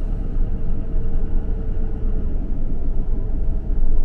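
Steady low rumble of a vehicle driving slowly, engine and tyre noise, with a faint steady hum in the first half.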